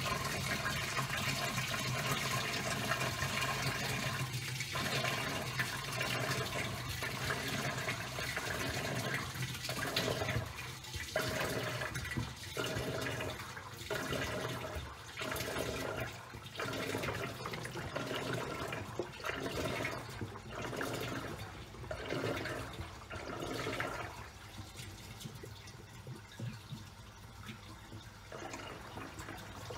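Top-loading washing machine washing towels: water churning and sloshing in the tub over a steady motor hum, surging about once a second as the wash action turns back and forth. The churning drops away and the sound goes quieter near the end.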